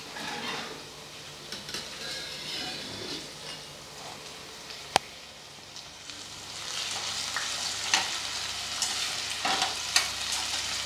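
Cubed potatoes sizzling as they fry in hot oil in a metal pot. There is a single sharp click about halfway through, and from about two-thirds in the frying grows louder as a spatula stirs and scrapes the pot.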